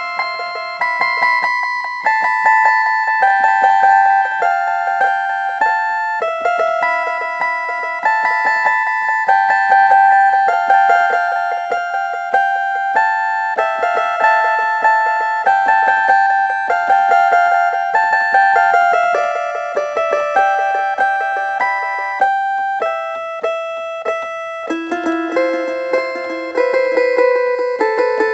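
Instrumental music: a keyboard in a piano-like sound playing a melody over chords, each note struck and fading.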